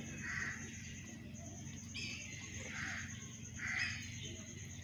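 Pet mynah bird giving a few short calls, about a second apart.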